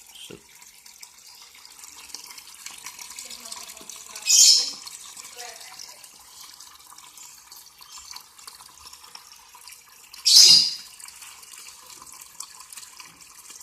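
Water running steadily into the wash tub of a Sanken TW-8120 twin-tub washing machine as it fills. Two brief, much louder bursts of noise come about six seconds apart.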